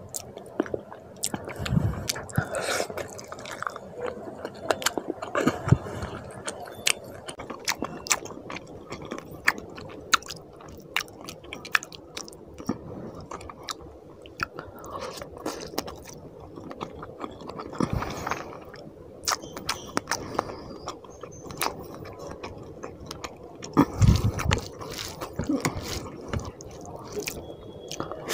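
Close-miked chewing and wet mouth clicks of a person eating fish curry and rice by hand, with squishing as the gravy-soaked rice is mixed with the fingers. A few dull low thumps come at intervals.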